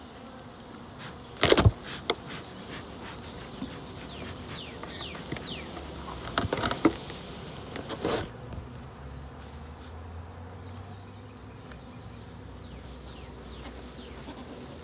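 Honeybees buzzing in numbers around an opened hive, with single bees passing close now and then. A few loud knocks, about a second and a half in and again around six to eight seconds in, as the hive's wooden top and supers are raised.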